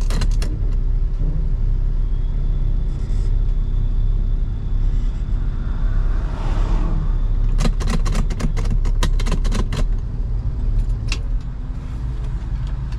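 Car engine idling with a steady low rumble. A short hiss swells and fades about halfway through, followed by a quick run of sharp clicks.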